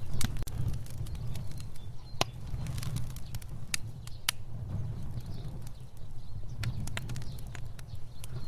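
Fire burning with a steady low rumble of flames and irregular sharp crackles and pops, the sharpest about two seconds in.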